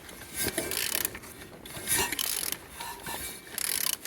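A used car engine being turned over by hand, in several mechanical strokes of about a second each with short pauses between; the engine turns freely.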